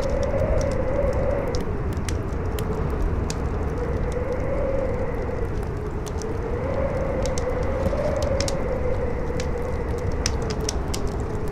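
Howling wind, its moaning tone slowly rising and falling, over the steady crackle and pops of a burning campfire.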